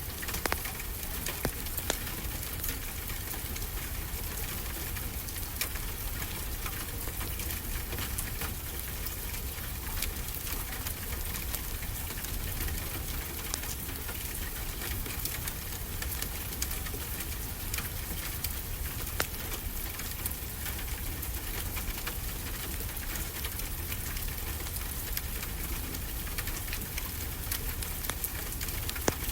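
Steady rain falling, mixed with a fireplace crackling, with frequent small sharp pops scattered through it.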